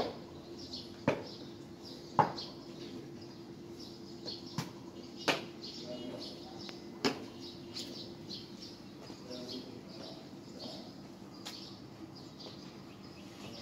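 Small birds chirping over a steady low hum, with a handful of sharp knocks: three about a second apart at the start, then a few more scattered later.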